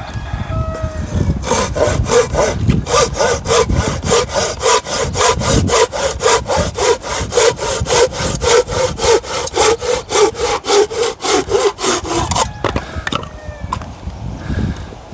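Hand saw cutting through a log for firewood: quick, even back-and-forth strokes, about three a second, that start about a second and a half in and stop near the end, after some eleven seconds of sawing.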